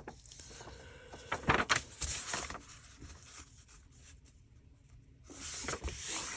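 Paper being handled on a craft table: a couple of light knocks about a second and a half in, brief rustling, and louder rustling of paper near the end.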